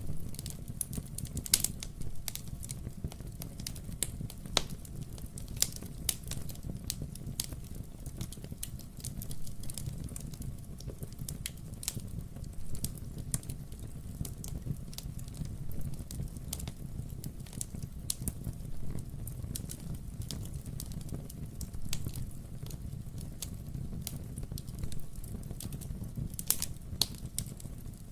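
Wood fire burning in a fireplace: logs crackling steadily with frequent sharp pops, a few louder ones scattered through, over a low, even rumble.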